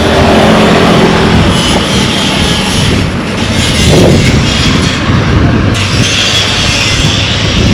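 Road traffic: vehicle engines running and cars passing close by, loud and steady, with one vehicle's engine note rising and falling about four seconds in.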